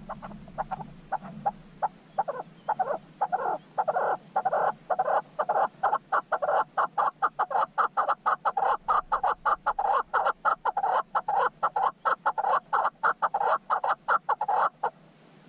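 A bird calling: a long series of short clucking notes that starts about twice a second, speeds up to four or five a second, then stops abruptly near the end.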